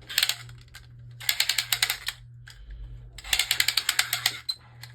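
Beyblade launcher being wound back to reset it, its ratchet giving three bursts of rapid clicking with short pauses between them.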